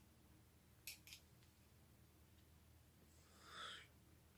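Near silence in a small room: two faint short clicks about a second in, and a soft breath near the end.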